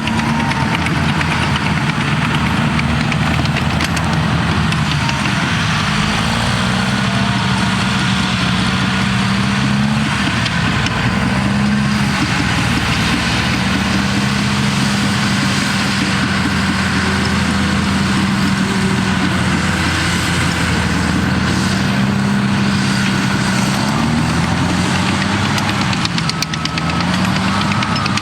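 Cat D6T bulldozer's six-cylinder diesel engine running steadily, its pitch dipping and rising again several times as it works.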